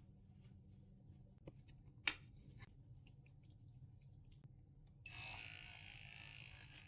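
Near silence: quiet room tone with a few faint clicks, the sharpest about two seconds in, and a faint steady hiss that starts about five seconds in.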